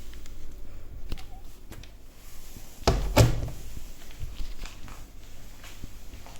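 Two quick thuds close together about three seconds in, like a door being shut, with a few lighter knocks before and after.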